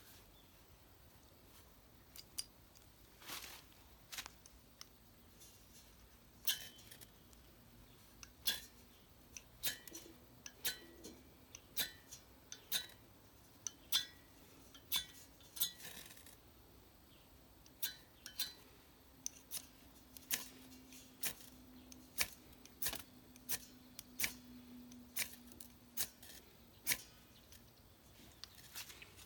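A series of sharp, short clicks, roughly one a second, starting about two seconds in.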